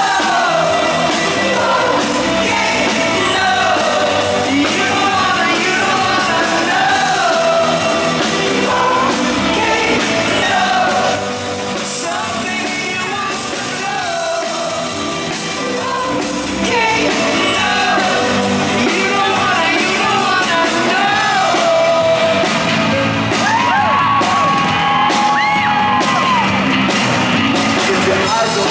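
Live rock band performing with a lead singer singing and shouting over guitars, bass and drums, heard through a fan's camera in a large arena hall. The band drops a little in level for a few seconds in the middle, and long held vocal notes come near the end.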